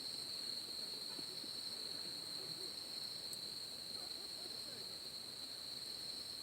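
Night insect chorus, crickets or similar, holding one steady, shrill high note without a break.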